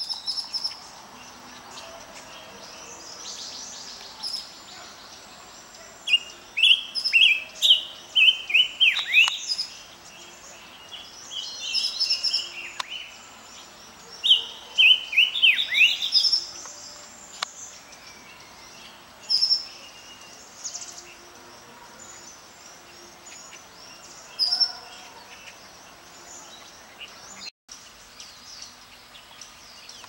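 Silver-eared mesias singing: two bouts of quick, clear whistled notes that slide down and back up, with sparser high chirps between them.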